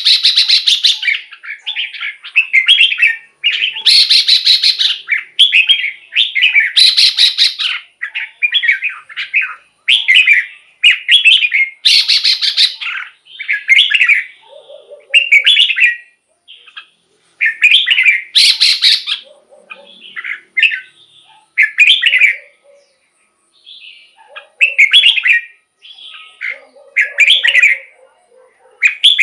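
Red-whiskered bulbul singing: short, bubbly, whistled phrases in quick succession, about one a second, some of them with a harsh raspy edge.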